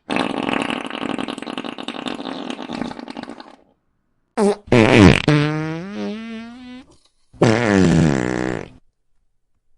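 A run of fart sound effects: a long sputtering, rumbling one that fades out over about three seconds, then a short pop, then a long pitched one that wavers in pitch, and a shorter pitched one near the end.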